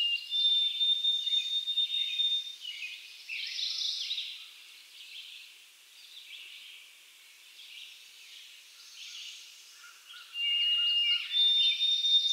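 Birds singing: chirping calls and long, steady whistled notes, a lower one followed by a higher one held for about two seconds. The same passage of whistles and chirps returns near the end.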